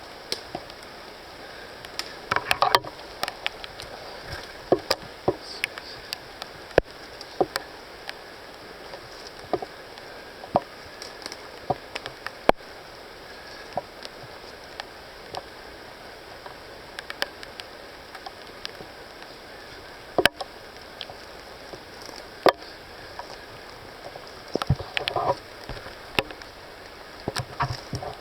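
Footsteps and brushing through wet, muddy forest undergrowth: irregular snaps, knocks and squelches, bunched in a few clusters, over a steady hiss of rainforest background.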